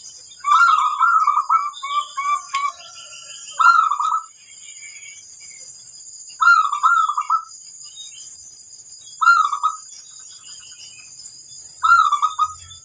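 Zebra dove (perkutut) cooing: five bursts of its rapid, trilling coo, repeated about every two and a half to three seconds. The first burst runs longer, with a string of short notes trailing after it.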